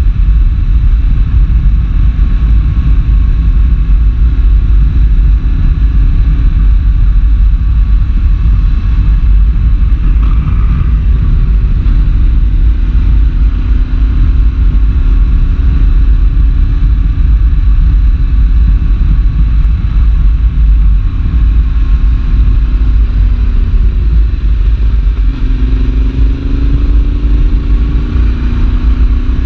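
Yamaha Tracer 7's 689 cc parallel-twin engine running under way through a full GPR exhaust with the dB killer fitted, under heavy wind rumble on the microphone. Near the end the engine pitch rises as the bike accelerates.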